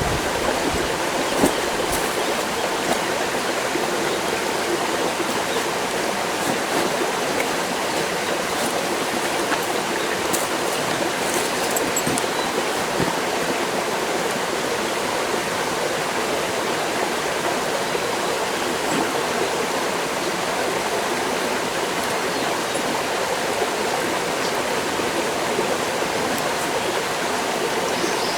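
Mountain stream rushing steadily over rocks, a constant even wash of water noise. A single sharp click is heard about a second and a half in, with a few fainter clicks later.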